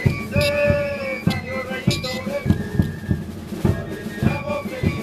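Religious dance troupe's drums beating a steady rhythm, about three strikes a second, with a flute playing short held notes over them.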